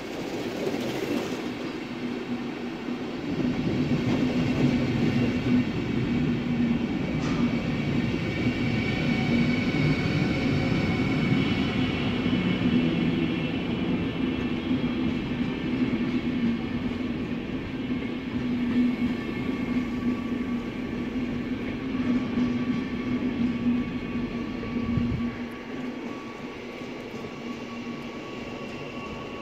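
Electric locomotive and its passenger coaches rolling past along the platform: wheels rumbling on the rails, with a steady hum and a high whine. The noise eases off about 25 seconds in.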